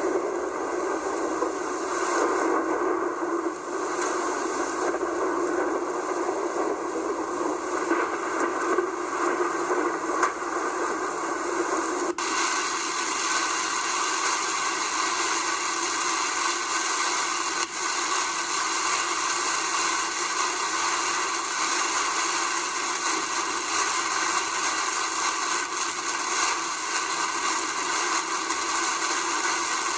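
Heavy rain, a steady rushing hiss, with an abrupt change in its tone about twelve seconds in.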